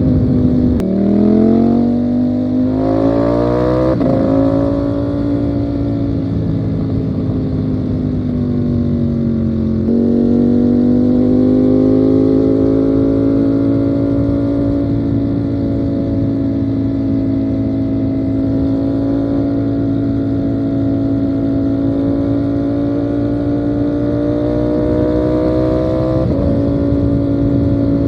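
Ducati Panigale V4 motorcycle engine under way. It shifts up about a second in and revs climb hard, then another quick shift. Revs sink as it slows, it shifts down at about ten seconds, holds a steady, slowly rising cruise, and shifts up again near the end.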